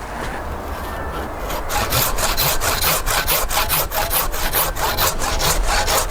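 Hand saw cutting through a thick apple-tree branch, with steady back-and-forth strokes about three a second that settle into rhythm after a second or so.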